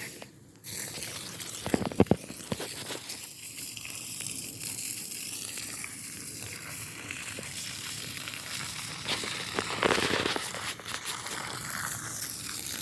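Garden hose spraying water onto a smouldering yard burn pile: a steady hissing spray that starts under a second in, with a few sharp knocks about two seconds in and a louder surge near the end.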